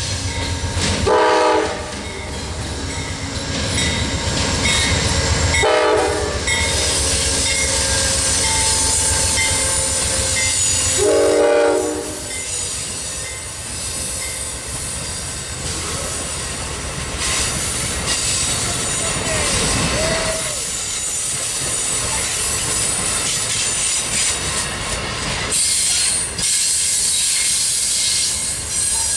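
Amtrak GE P42DC locomotive sounding its horn three times, about 1, 6 and 11 seconds in, the last blast the longest, over the rumble of its diesel engine as it approaches. Then the passenger cars roll past with wheel clatter and a brief wheel squeal.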